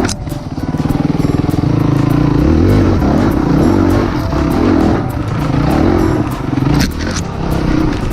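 Dirt bike engine revving up and down as it is ridden over rough trail, its pitch rising and falling with the throttle. There are sharp knocks near the start and about seven seconds in.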